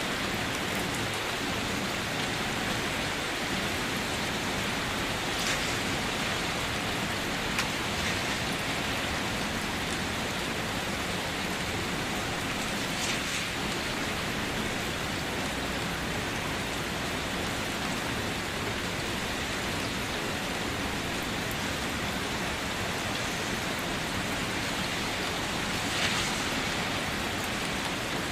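Steady light rain falling, an even hiss with a few louder drops now and then, the loudest near the end.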